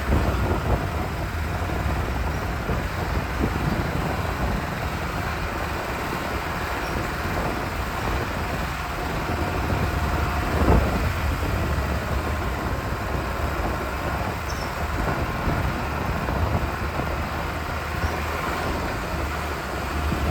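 Lada Niva driving along a rough off-road track: a steady rumble of engine and road noise, with a single knock from a jolt about eleven seconds in.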